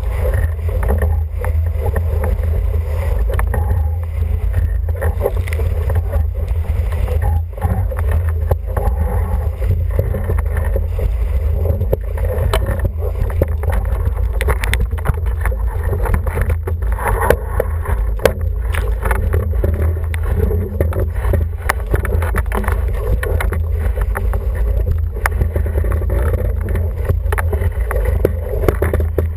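Wind buffeting the microphone and water rushing past the hull of an International 14 sailing dinghy under way: a steady low rumble with scattered sharp knocks and splashes throughout.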